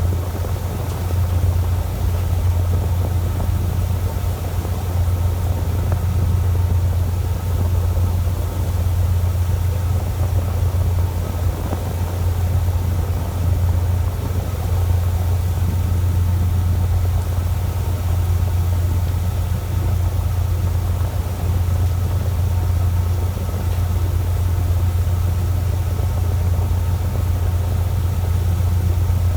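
A fishing boat's engine running steadily: a constant low drone with no change in pitch or level.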